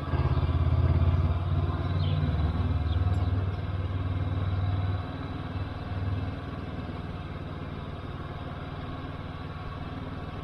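Honda motorcycle engine running under throttle while riding, then easing off about five seconds in and running quieter for the rest.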